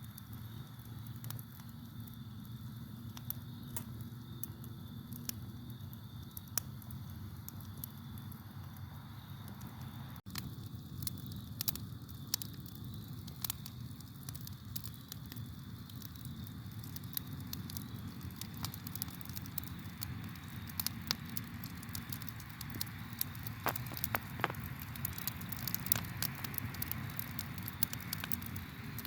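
Campfire burning, with frequent sharp crackles and pops that come thicker in the second half, over a low steady rumble of the flames. Crickets chirp faintly in a steady high drone.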